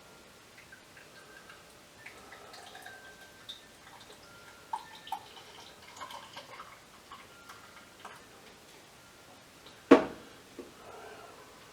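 Bottled ale being poured into a glass, with faint trickling, glugging and small clicks. A single sharp knock sounds near the end.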